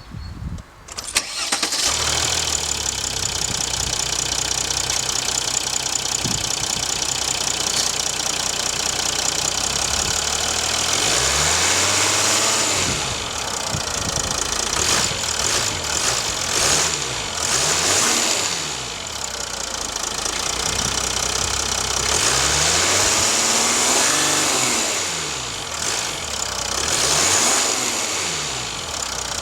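Mercedes E350 V6 turbodiesel starting: it cranks and catches about a second in, settles into a steady idle, then is blipped several times, rising and falling in pitch, from about a third of the way in, heard from the engine bay.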